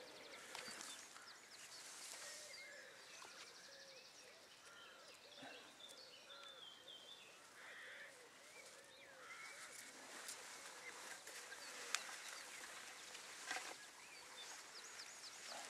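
Faint bird calls and chirps over quiet outdoor ambience, with a single short sharp click about three quarters of the way through.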